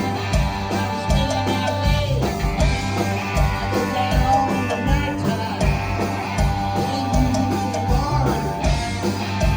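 Rock band playing a song: a steady drum beat under bass and electric guitars, with a singing voice.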